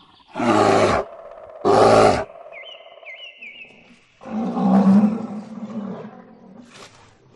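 A bear calling: two short loud roars, then a longer, deeper one about four seconds in that fades out. Faint high chirps are heard between the calls.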